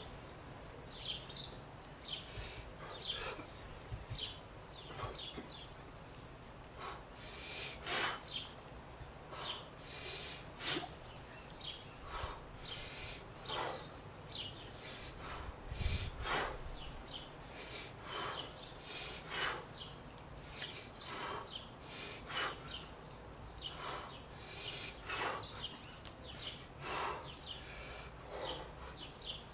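Birds chirping repeatedly outdoors in short high calls.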